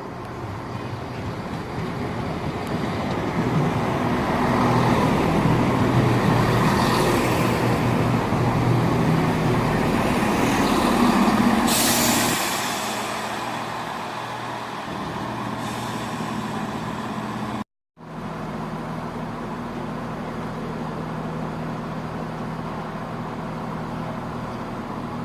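Diesel train engine running, growing louder over the first few seconds, with a sharp hiss of air about twelve seconds in. After a brief dropout the engine carries on at a steady idle.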